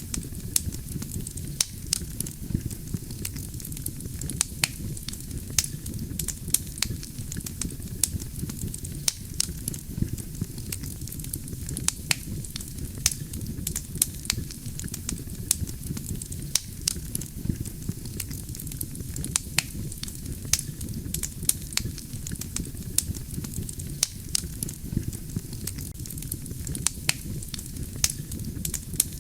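Wood campfire burning: a steady low rumble of flames under sharp, irregular crackles and pops from the burning logs, several a second.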